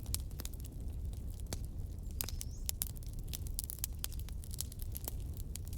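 Fireplace fire crackling: many sharp, irregular pops and snaps over a steady low rumble.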